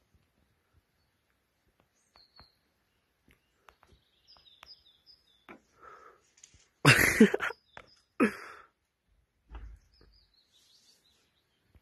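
Small birds chirping faintly, with scattered light clicks. Two short, loud bursts of noise come about seven and eight seconds in.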